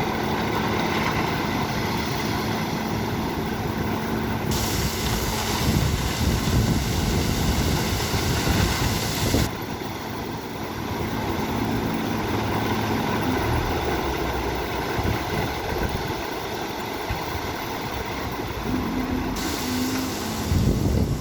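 Heavy truck engine running, with a louder, rougher stretch in the middle.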